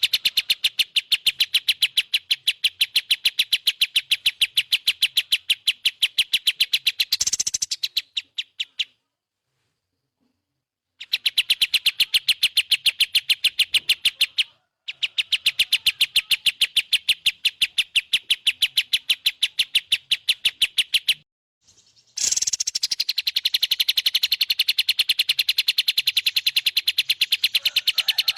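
Recorded songbird call for bird training: a fast, evenly repeated high chirping, about ten chirps a second, that stops dead for about two seconds after the first third and again for a moment twice more before resuming.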